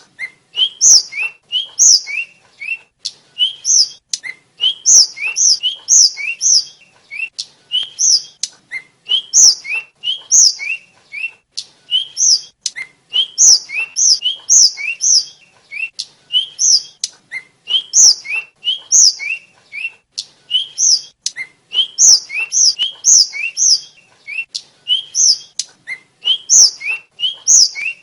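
Tledekan (sikatan), a small Indonesian flycatcher, singing a fast run of short, high, sliding chirps, phrase after phrase with brief pauses between.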